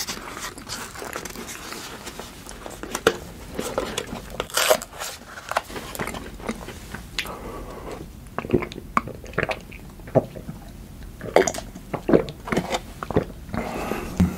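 Close-miked eating: crunchy chocolate snacks bitten and chewed. A run of sharp crunching clicks, thickest in the second half.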